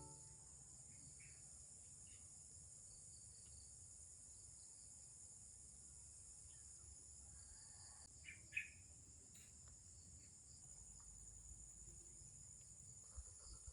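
Faint, steady, high-pitched chirring of insects, crickets among them, with a brief short sound about eight and a half seconds in.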